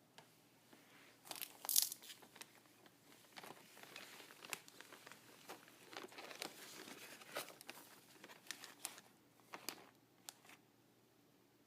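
Packaging being handled, crinkling and rustling in irregular bursts, loudest about two seconds in and dying away near the end.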